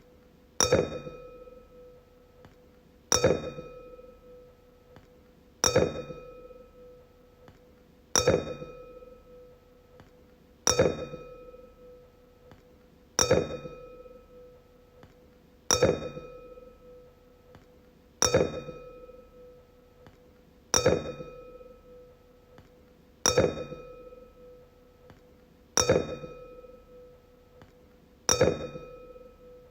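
A wine glass struck about every two and a half seconds, twelve times. Each strike gives a clear ring with a bright overtone that fades away before the next tap.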